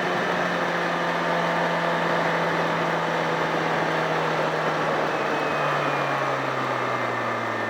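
Sportbike engine running under way over a steady rush of wind and road noise. Its note sinks slowly and drops further about two-thirds of the way through.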